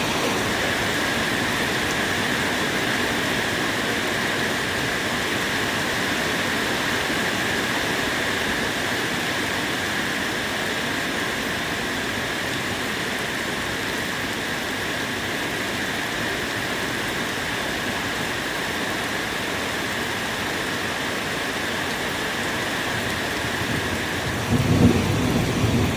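Steady rain falling, an even hiss. Near the end a louder, uneven low rumble comes in.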